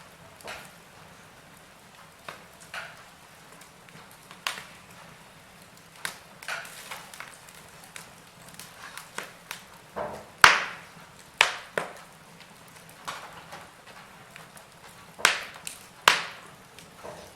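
Wood fire in a fireplace crackling, with irregular sharp pops and snaps at uneven intervals; the loudest pops come in a cluster past the middle and again near the end.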